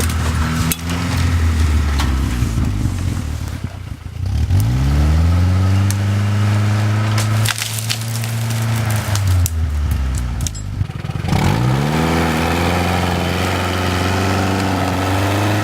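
GAZ-69's four-cylinder petrol engine revving up hard three times and holding high revs under load, falling back between pulls. Sharp cracks and crunches sound over it.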